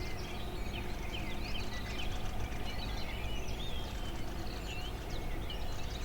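Many small birds chirping and twittering in overlapping short calls, over a steady low background rush.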